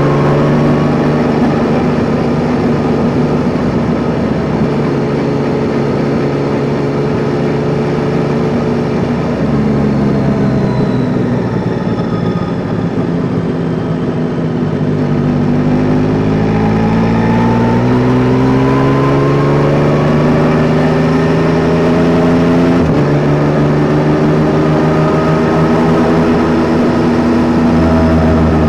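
Yamaha Tracer 9 GT's 890 cc three-cylinder engine under way, its note rising under acceleration, falling as the throttle eases, then climbing again, with a short break in the note near the end. Wind and road noise run underneath.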